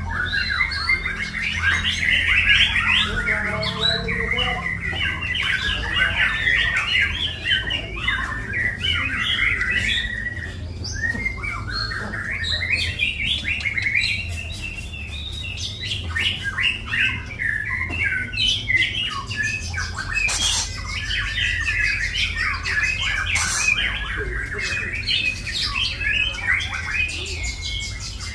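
White-rumped shama (murai batu) singing continuously: a rich, varied song of quick notes, trills and squawky phrases, over a steady low hum.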